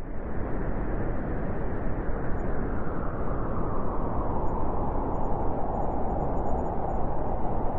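Strong wind of a snowstorm blowing through a forest: a steady rushing noise with a deep rumble underneath, rising quickly from silence at the start.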